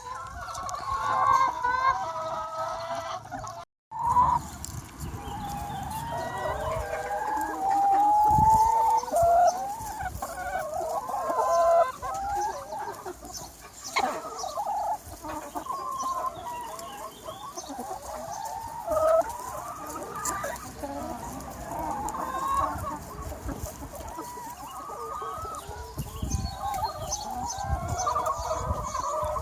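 A large free-range flock of chickens clucking and calling over one another without a break. The sound cuts out for a moment about four seconds in.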